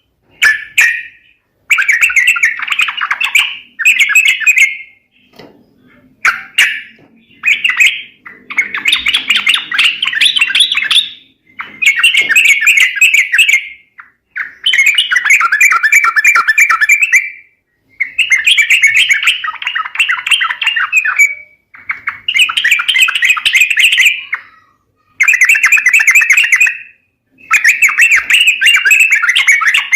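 Yellow-vented bulbul (trucuk) calls played as a lure for wild birds: bursts of rapid, bubbly chattering notes, each a second to three seconds long, repeated with short pauses.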